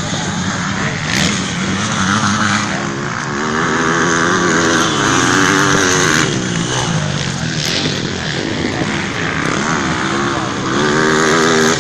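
Motocross bikes racing on the track, their engines revving up and down as they accelerate and shift, louder as bikes pass around four seconds in and again near the end.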